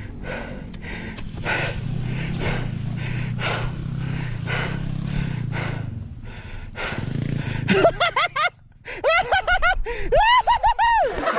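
Trail motorcycle engine running at low revs, with a steady low hum. From about eight seconds in, short rising-and-falling vocal cries from a person take over.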